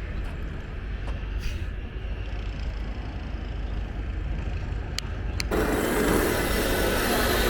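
A low steady rumble with two light clicks, then about five and a half seconds in a sudden switch to a louder, steady rush of water flowing from a full dam.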